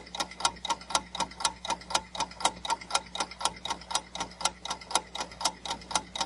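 Countdown timer sound effect: a clock ticking fast and evenly, about four ticks a second.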